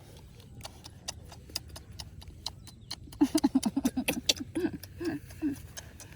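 A woman's voice making a quick run of short, staccato pitched sounds about three seconds in, then three slower ones, amid a patter of light clicks.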